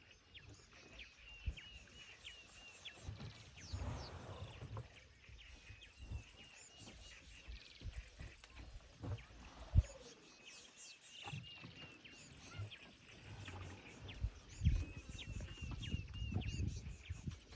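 Birds calling in repeated phrases of short, high chirping notes, over low rustling and thuds, with one sharp knock about ten seconds in.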